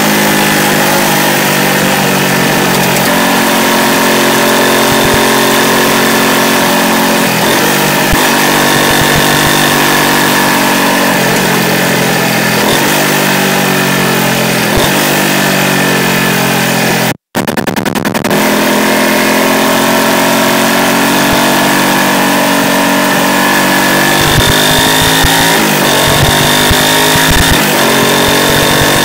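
Yamaha YZF-R125's single-cylinder four-stroke engine running under way with its anti-pollution (EGR) system removed, heard through a microphone mounted under the bike. The pitch rises and falls repeatedly as it pulls through the gears and eases off. The sound cuts out briefly a little past halfway.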